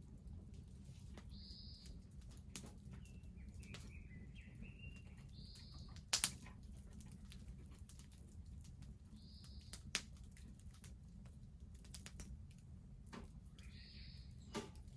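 Wood bonfire crackling, with sharp pops scattered through and the loudest about six seconds in, over a low steady noise. A bird gives a short high call about every four seconds, and a second bird warbles briefly a few seconds in.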